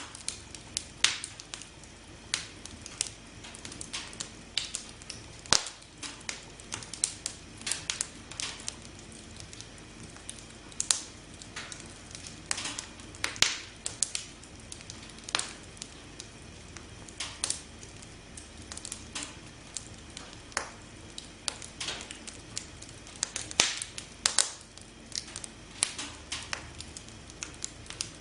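Campfire crackling: irregular sharp pops and snaps of burning wood, several a second at times, over a steady low hiss of the flames.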